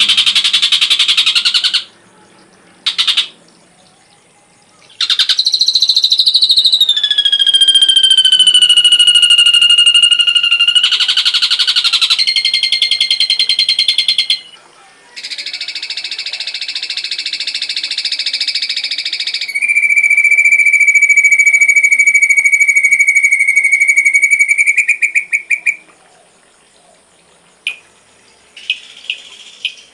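Ashy drongo song: loud phrases of rapid buzzy trills alternating with long held whistles, one sliding slowly down in pitch, with short pauses between phrases.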